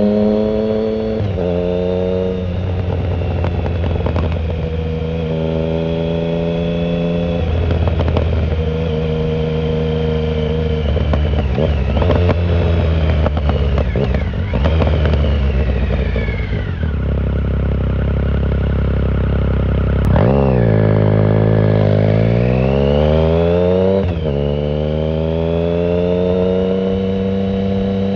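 2009 Triumph Speed Triple 1050's three-cylinder engine through a short Competition Werkes exhaust with no silencer, under way. It accelerates through the gears several times, with its pitch climbing and stepping down at each shift. About fifteen seconds in it backs off, the pitch falling to a low steady run, and after a sharp rev about twenty seconds in it pulls hard again.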